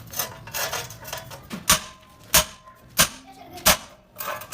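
Hammer striking sheet metal: four sharp blows about two-thirds of a second apart, with a brief metallic ring after some of them and lighter clattering before them.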